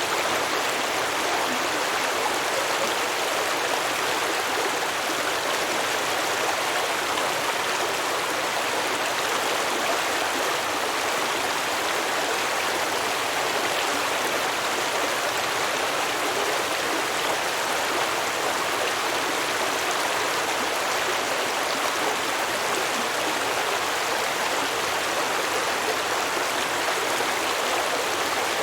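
Small stream flowing and babbling over rocks, a steady even rush of water with no let-up.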